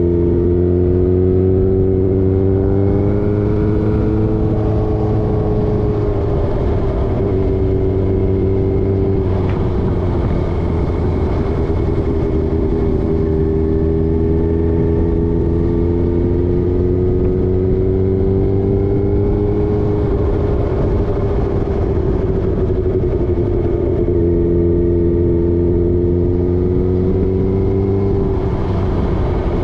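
Motorcycle engine running under way, its pitch climbing slowly and then dropping back several times as it pulls through the gears.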